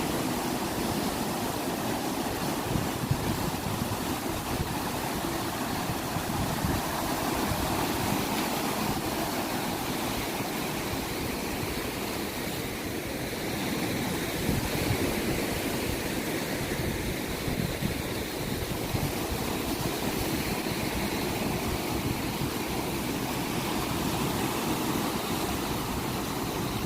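Ocean surf washing ashore, a steady rushing noise that swells and eases slowly.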